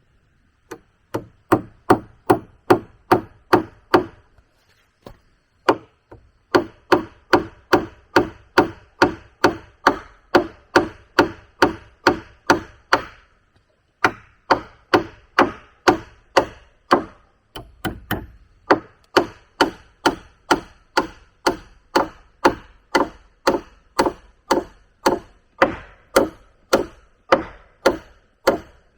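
A tool striking wood again and again at a steady pace, about two and a half blows a second, in four runs with short breaks between them.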